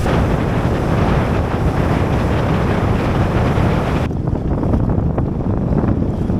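Strong wind buffeting the microphone on a small boat in rough, windy water, a dense low rumble. About four seconds in, the higher hiss drops away abruptly while the low rumble goes on.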